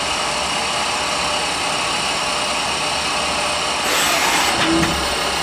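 KSI SQC20 CNC Swiss lathe running dry: a steady whir of the sub spindle moving and the back-end live tools spinning, with no part being cut. About four seconds in, the sound gets a little louder and brighter.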